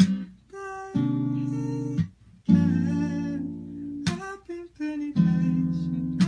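Background music: acoustic guitar chords strummed one after another, each ringing on briefly, with short breaks between them.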